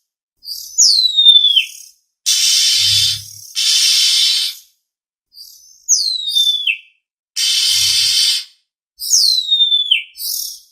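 Oriental magpie-robin (kacer) lure calls: a whistled note sliding steeply downward, followed by two harsh rasping calls, repeating in a cycle about every four to five seconds.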